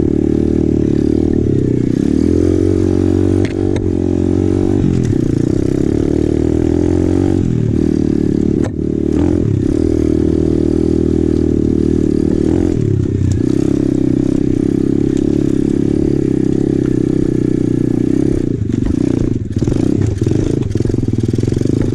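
Apollo RFZ 125cc pit bike's single-cylinder four-stroke engine running under way on a trail, loud and close, its revs rising and falling with the throttle, with a few short drops in revs about nine, thirteen and nineteen seconds in.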